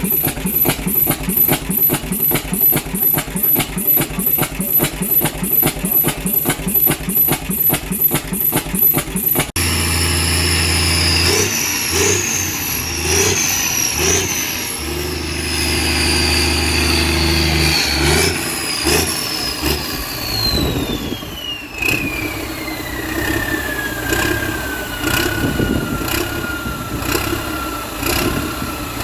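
Truck engines running. For about the first ten seconds an engine runs with a rapid, even beat; after an abrupt change, a whine steps up and down in pitch, then falls steadily and at length over the last several seconds.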